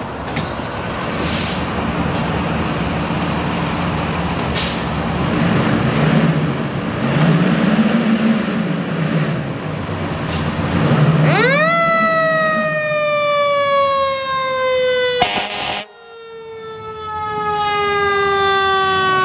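Fire truck responding: its diesel engine runs and revs under load. About eleven seconds in, its siren comes on, shooting up in pitch and then winding slowly down.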